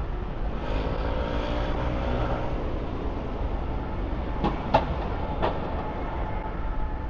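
Street traffic: a steady low rumble, with a heavy vehicle's engine humming past in the first couple of seconds. Three sharp clicks or knocks come a little after halfway.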